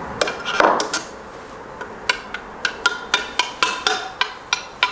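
Hammer tapping metal on metal at a bearing race in an aluminium transmission case. A few scattered taps come first, then a run of about a dozen quick strikes, three or four a second, each with a short ring.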